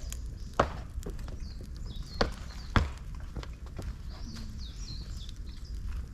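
Dry bamboo and twigs crackling and popping as they burn in a fire pit, with three sharp loud cracks and a few lighter ones. Birds chirp in the background.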